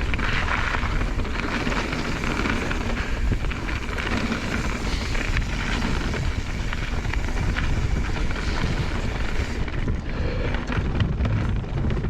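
Mountain bike descending a dirt trail: wind rumbling on the camera microphone over tyre noise, with frequent small knocks and rattles from the bike over the ground.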